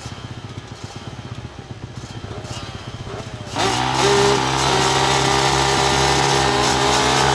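Several 250 cc flat-track racing motorcycles idling and blipping their throttles. About three and a half seconds in, the engines jump together to a loud full-throttle run as the race starts.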